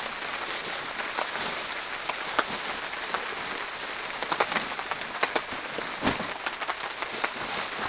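Steady rain falling on the canvas of a tipi tent, heard from inside, with scattered sharp ticks from about halfway through and a dull thump about six seconds in.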